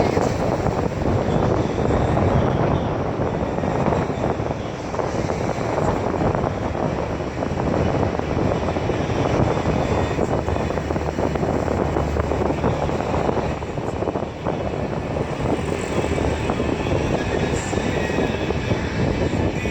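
Steady rumble of a car driving, with road and wind noise.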